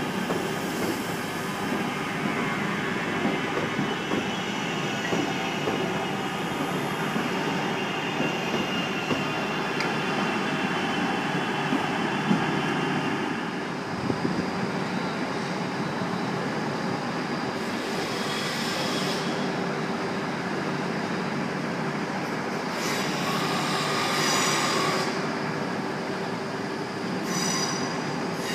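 Passenger train moving through the station with a steady hum. Its wheels squeal on the rails in several high-pitched bursts in the second half.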